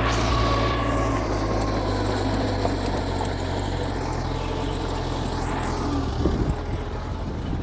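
Mitsubishi G2 bulldozer's diesel engine running steadily. Two high squeals rise and fall, and a few knocks come about six seconds in.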